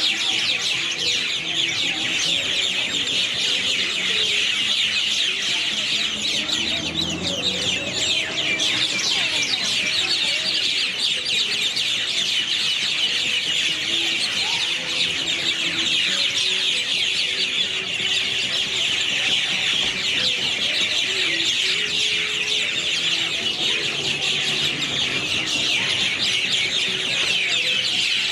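A large flock of birds in one tree chirping loudly all at once: a dense, unbroken wall of rapid high calls.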